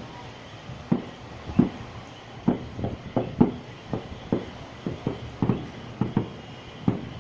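Fireworks going off: an irregular run of short, sharp bangs, about two a second, some louder than others.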